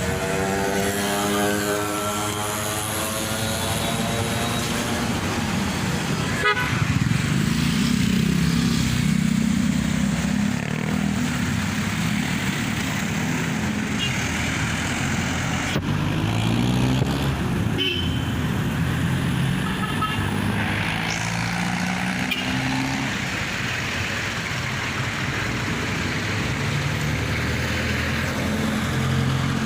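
Motor vehicle engine running with road traffic noise, its low hum shifting in pitch now and then. In the first few seconds a passing sound falls steadily in pitch.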